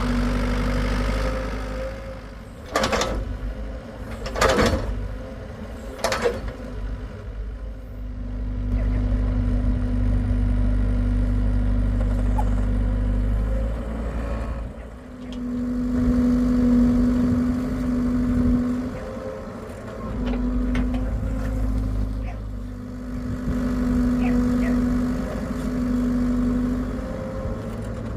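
Hitachi EX75UR excavator's diesel engine running as it digs, its pitch and load rising and falling with the hydraulic work. Three sharp metal knocks come between about three and six seconds in.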